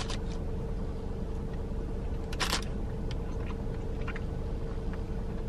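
A person biting into a soft cranberry bliss bar and chewing it, with a few short noisy mouth sounds, the loudest about two and a half seconds in. A steady low hum of the car's cabin runs underneath.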